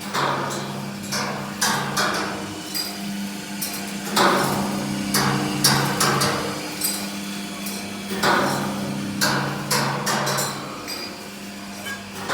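A steady low machine hum with irregular sharp knocks and clanks, about one or two a second, some ringing briefly.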